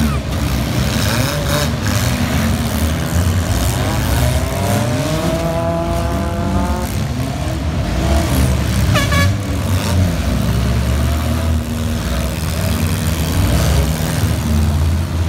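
Several demolition derby cars' engines running loud, with one engine revving up in a rising whine about five seconds in. A short high squeal near nine seconds in.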